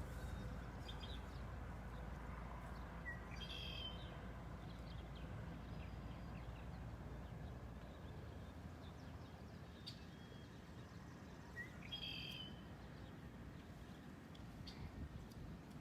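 Faint outdoor ambience with a bird calling twice, about eight seconds apart, each call a quick rising note followed by a higher chirp, and a few faint high ticks between. A low rumble underneath eases off about halfway through.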